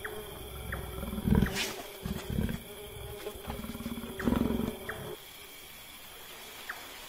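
A bee buzzing steadily around a leopard cub as she drinks, over a series of short low sounds from the leopard for the first five seconds, which then stop suddenly.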